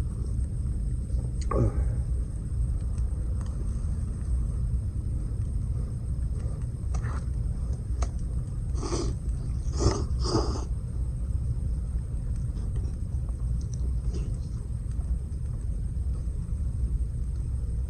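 Campfire burning with a steady low rumble and a few scattered crackles, three of them close together a little past the middle.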